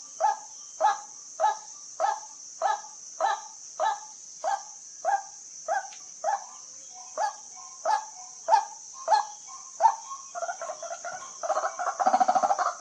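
White-breasted waterhen calling: a steady series of single call notes, about one and a half a second, which break into faster chattering notes near the end and build into a loud, dense run. A steady high insect buzz runs underneath.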